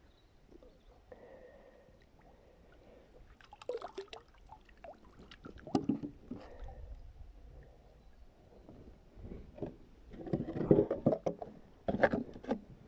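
A magnet-fishing magnet with a heavy metal catch, a curved lid, being hauled up out of the water: irregular splashes, knocks and scrapes, loudest in the last few seconds.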